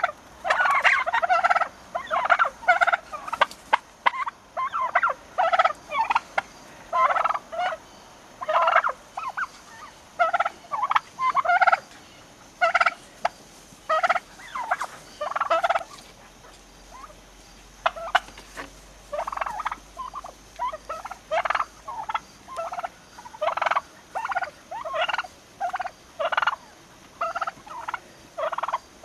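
Young turkeys, almost six months old, gobbling in a rapid run of short calls, with a brief lull a little past the middle.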